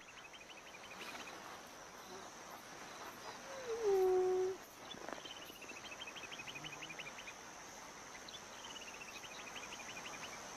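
Savanna ambience: a steady high insect hiss with three runs of rapid chirps that fall in pitch. About four seconds in, a spotted hyena gives a short low call of about a second, sliding down in pitch and then holding.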